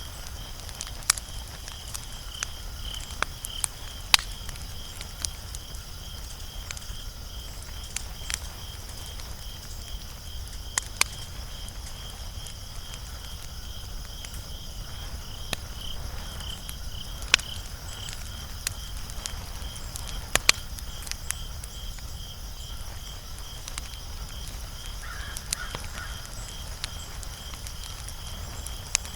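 Wood fire crackling, with irregular sharp pops and snaps, over a steady, evenly pulsed high chirping that runs throughout.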